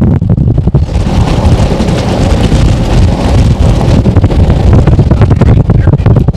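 Strong wind buffeting the microphone in a loud, steady rumble, with a broader rush of wind hiss building from about a second in.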